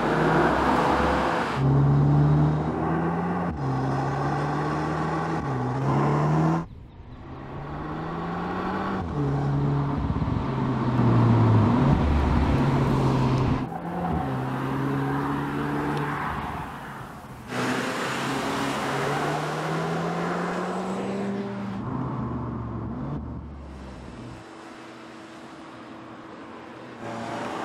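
Audi S3 Sportback's turbocharged 2.0 TFSI four-cylinder accelerating through the gears, its pitch climbing and dropping back at each upshift, in several takes joined by abrupt cuts. Near the end it settles to a quieter steady note.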